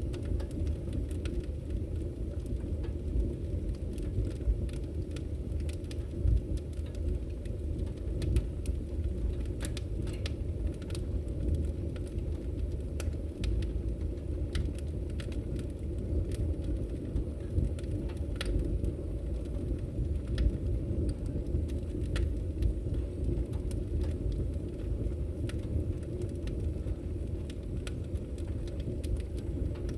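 Wood fire burning logs in a fireplace: a steady low rush of flame dotted throughout with many small, sharp crackles and pops.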